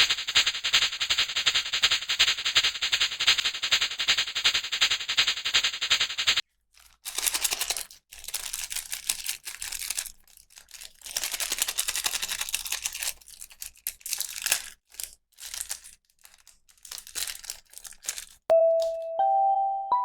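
Plastic packaging crinkling and tearing as a toy is unboxed: a dense, continuous crackle for the first six seconds, then shorter bursts with pauses. Near the end a few bright chiming notes begin.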